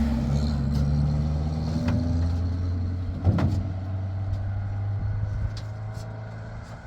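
A motor vehicle engine running with a steady low hum that slowly fades, with a few light clicks and a louder knock a little past the midpoint.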